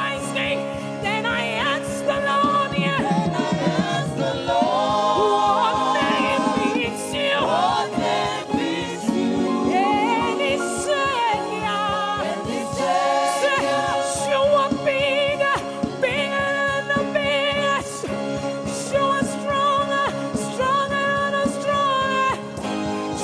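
Gospel worship music: sung voices, with a choir or backing singers, over a band with a steady beat.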